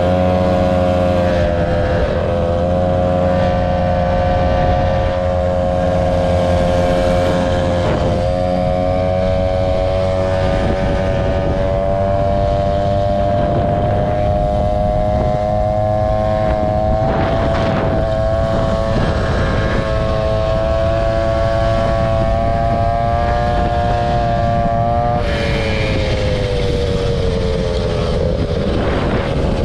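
Motor scooter engine running at a steady cruising speed with a constant high-pitched drone. Near the end the pitch sags as it slows, then picks up again.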